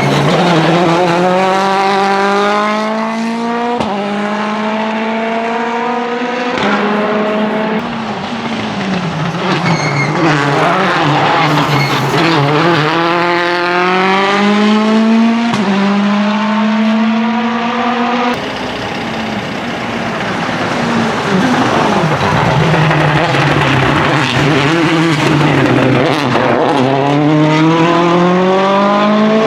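Citroën DS3 WRC rally car's 1.6-litre turbocharged four-cylinder engine accelerating hard, its pitch climbing and then dropping sharply at each quick upshift, several times over. About two thirds of the way through the sound changes abruptly, and the revs fall and rise again.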